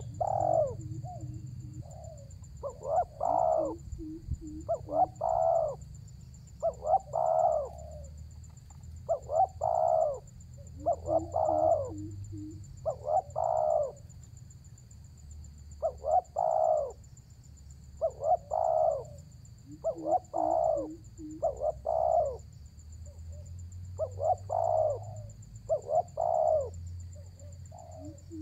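Spotted dove (tekukur) cooing over and over: hoarse, multi-note coo phrases of about a second each, repeated roughly every two seconds, with soft groups of low notes in between. A faint steady high whine runs underneath.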